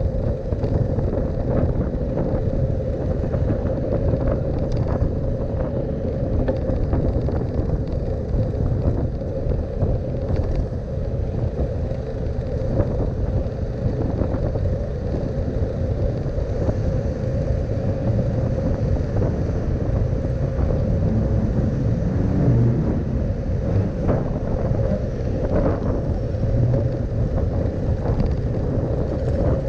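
Continuous road and wind noise from a moving bicycle, with a steady hum and scattered small rattles and ticks.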